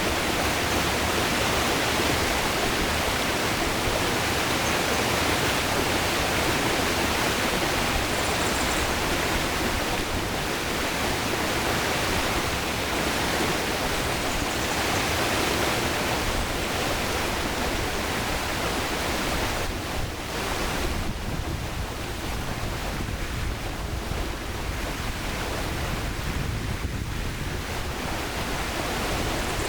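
River water rushing steadily over rocks, a continuous even noise of flowing water.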